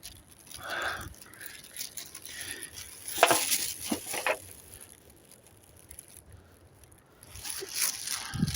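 Footsteps and rustling on the woodland floor while walking, in irregular scuffing bursts with a quieter spell past the middle.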